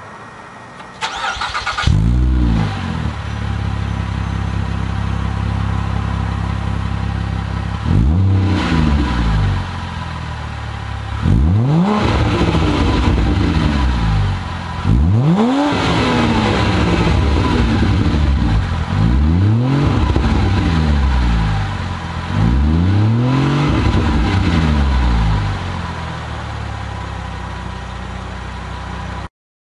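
2009 Mazda 6's 3.7L V6 through Borla Pro XS mufflers with the rear resonator deleted, cranked over and started with a flare of revs. It settles to an idle and is blipped five times, each rev climbing and dropping back to idle, before the sound cuts off near the end.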